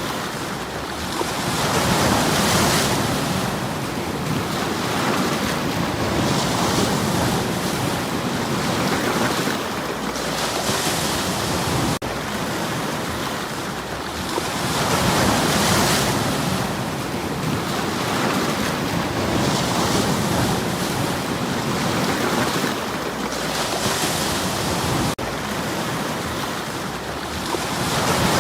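Sea waves washing onto a stony shore, a steady rushing surf that swells with each wave about every four seconds.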